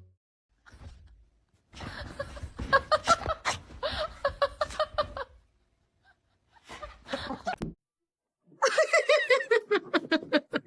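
Hearty laughter in quick breathy pulses, coming in three spells with short pauses between them, the last one higher and more strained.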